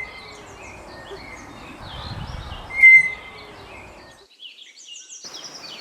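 Lowland tapir giving a short, shrill whistling squeal about three seconds in, over a steady background of small birds chirping. The sound cuts out briefly at about four seconds in.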